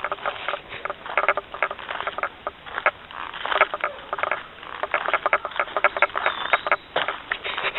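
Footsteps crunching on a dry, leaf-strewn trail, a quick irregular patter of short crunches.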